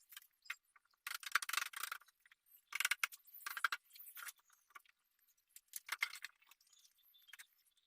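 Light metallic clinking and rattling in short spells of about a second, from small hard objects being handled.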